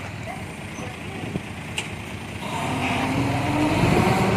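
Diesel engine of earthmoving machinery running, then rising in pitch and getting louder from about halfway through as it comes under power. Two short clicks come in the first half.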